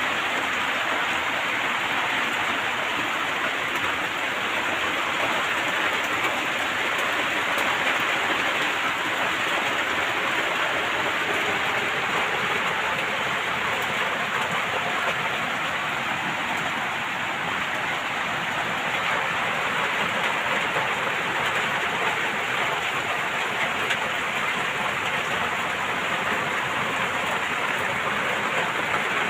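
Steady rain falling on a garden, a continuous even hiss with no let-up.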